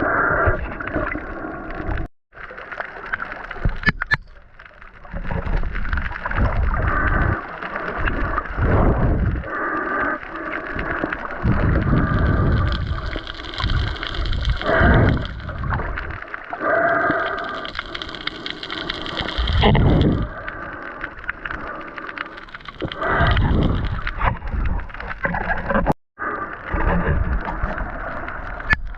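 Water heard through a submerged microphone, sloshing and gurgling around it in uneven surges every couple of seconds. The sound drops out abruptly twice, about two seconds in and near the end.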